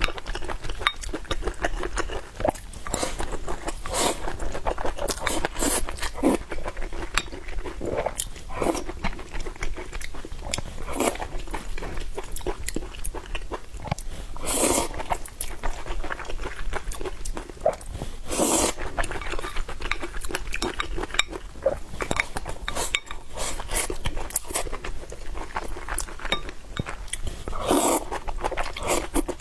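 Close-miked eating: chewing and crunching food with many small wet mouth clicks, and a couple of louder, longer noisy sounds about halfway and two-thirds of the way through.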